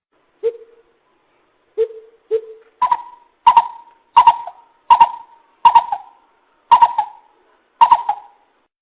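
Coucal (bìm bịp) hooting, as a lure-call recording. A few low hoots come first, then from about three seconds a series of higher hoots, about one a second, each starting sharply.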